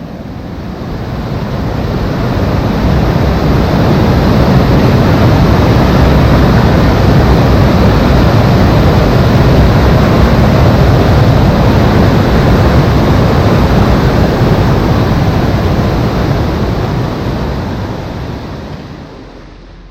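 Waterfall close by: a loud, steady rush of falling water that swells in over the first few seconds and fades away near the end.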